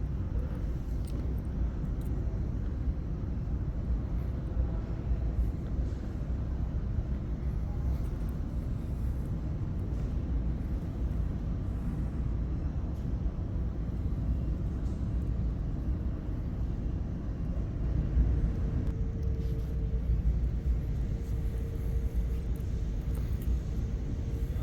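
Steady low rumble of background noise in a large indoor exhibition hall. A faint steady hum joins in during the last several seconds.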